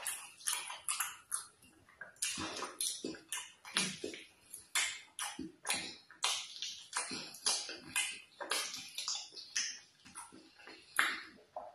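Close-miked wet eating sounds: chewing, lip smacks and squelches from a mouthful of fufu, vegetable soup and fish, coming as a rapid, irregular run of short clicks several times a second.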